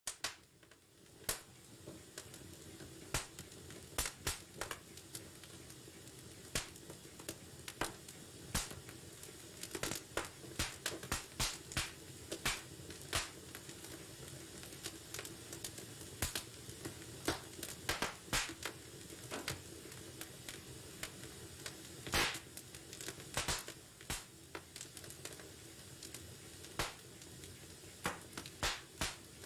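Wood fire burning in a fireplace, crackling with frequent sharp, irregular pops over a low steady hiss and rumble of the flames.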